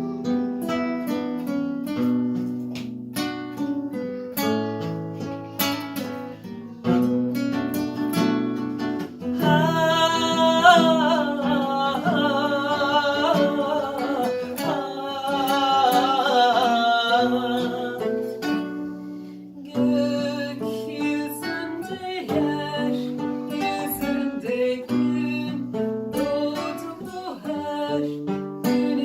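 Acoustic guitars playing a slow plucked and strummed accompaniment. A voice sings a long wavering line with vibrato from about ten seconds in until about eighteen seconds.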